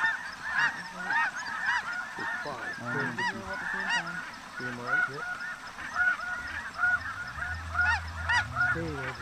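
A flock of snow geese calling: many high, overlapping honks in a continuous chatter.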